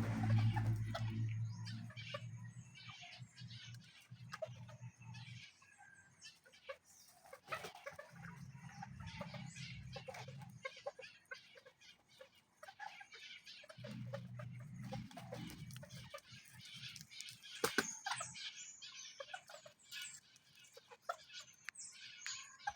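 Bantam chickens clucking and chirping, with many short calls scattered throughout. A low hum comes and goes underneath, loudest at the start.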